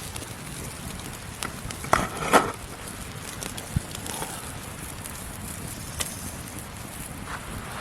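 Wood campfire crackling over a steady low hiss, with scattered sharp pops and a louder pair of knocks about two seconds in.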